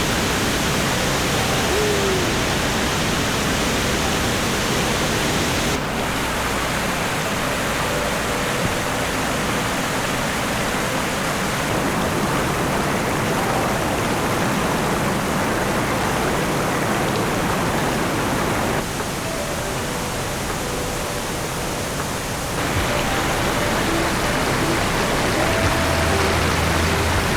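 Steady rush of cascading hot-spring water, with sudden changes in level about six, nineteen and twenty-three seconds in.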